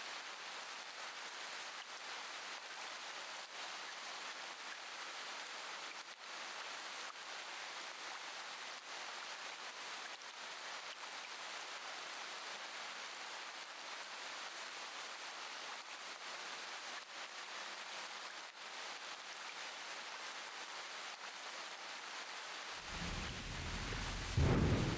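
Steady rain, with a low rumble of thunder building near the end.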